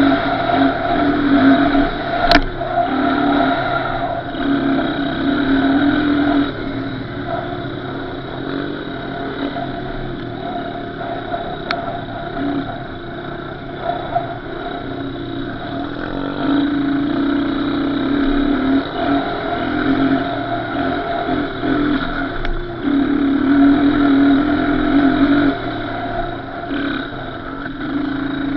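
Small off-road engine running, its revs rising and easing every few seconds as it is ridden. A sharp click about two seconds in.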